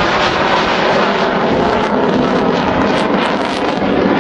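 Hawk T.1 jet's Rolls-Royce Turbomeca Adour turbofan making a steady, loud noise as the aircraft flies a slow pass with landing gear and flaps down, below 200 knots.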